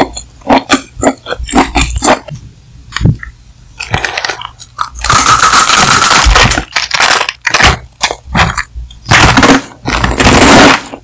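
Close-miked chewing and crunching of a dry, crispy noodle snack. Scattered mouth clicks give way to a dense run of loud crunching about five seconds in, and again near the end.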